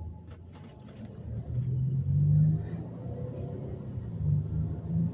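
Car engine heard from inside the cabin, revving up as the car pulls away about a second and a half in, then settling into a steady drone with road noise.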